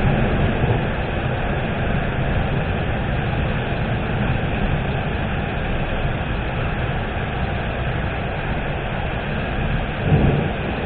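Thunderstorm: a steady hiss of rain with low rumbles that swell near the start and again near the end.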